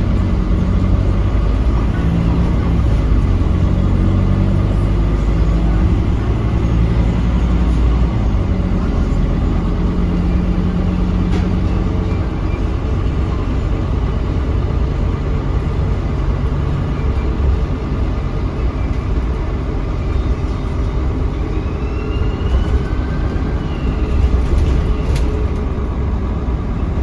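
Interior sound of a Scania K310UB bus under way: its five-cylinder diesel engine drones steadily, with road and drivetrain noise.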